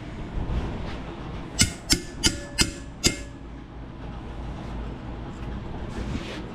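Five quick hammer blows on a hand-forged anvil holdfast, driving it down to clamp a piece of flat bar against the anvil. Each strike rings briefly.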